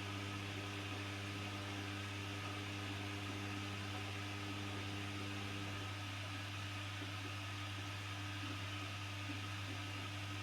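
Washing machine running with a steady motor hum and an even hiss.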